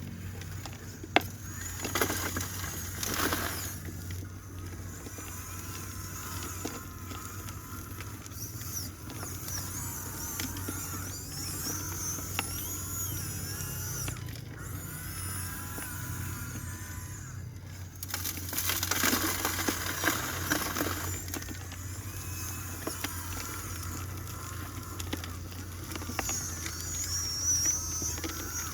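Small electric motors of a Huina RC excavator and a homemade trommel whining over a steady low hum, their pitch shifting as they work. Twice a louder, rougher noise lasts a second or two.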